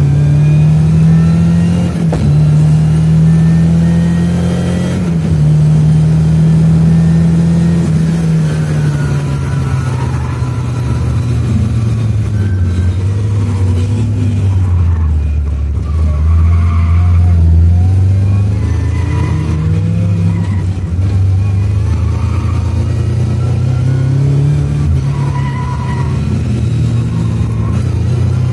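Lada 2107's 2-litre Fiat engine running hard on a race circuit, heard from inside the car. The revs dip sharply twice in the first few seconds as gears change, sink to a low drone about halfway through, then build and fall again through the corners.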